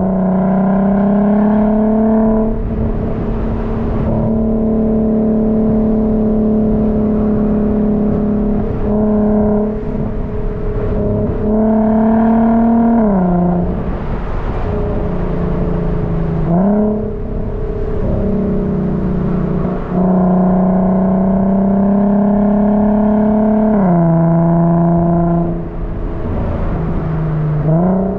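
Car engine running at fairly steady revs under way, its pitch dipping and climbing back several times.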